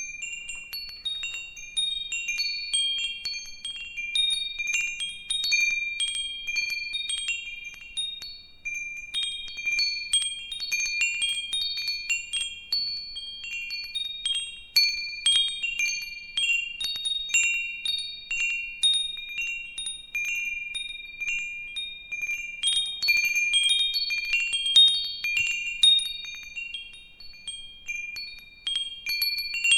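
Wind chimes ringing in the breeze: many overlapping high-pitched tones, struck at irregular moments and each ringing on, with louder flurries of strikes now and then.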